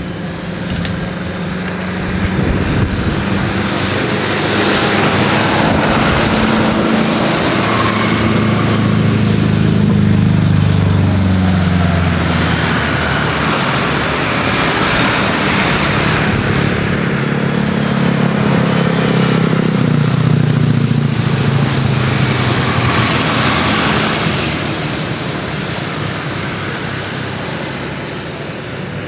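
Jet airliner engines passing close by, a loud rushing drone that swells twice, its hum sliding down in pitch as it goes past.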